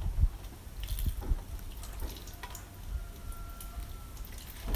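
Liquid dripping and trickling, with a few small scattered drips.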